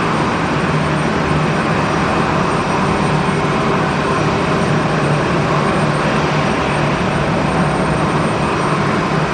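Jet airliner engines running, a loud steady rush with a thin high whine above it.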